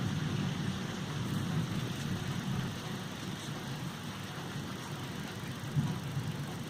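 Thunderstorm: a low rumble fading slowly under a steady hiss of rain.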